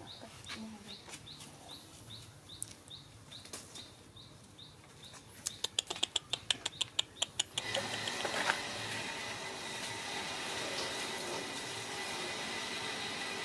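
A small bird chirps about twice a second, each a short rising note. About halfway through comes a quick run of sharp clicks, about six a second, for two seconds. Then a steady hiss with a faint high whine takes over.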